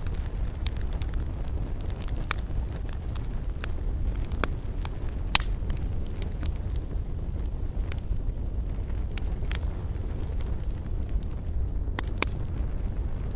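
Wood fire burning in a fireplace, crackling with scattered sharp pops over a steady low rumble. The loudest pop comes about five seconds in.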